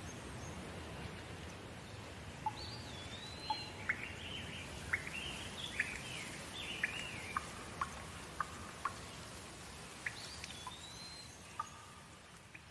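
Steady rain with a bird calling over it: a whistled note that rises and then falls, followed by a run of short sharp chirps, and the whistle comes again about ten seconds in. The rain grows quieter near the end.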